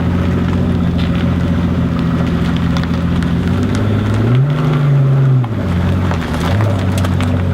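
Car engine idling steadily, revved once about four seconds in and dropping back to idle after about a second.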